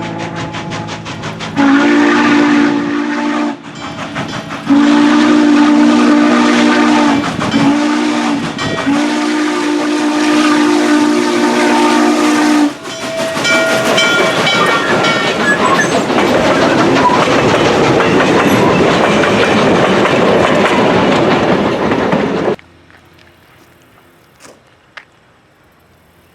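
Steam locomotive whistle, likely Norfolk & Western 611's, blowing the grade-crossing signal: two long blasts, a short one and a final long one. After it, the train passes loudly with steam exhaust and rolling wheels on rail joints, then the sound cuts off sharply.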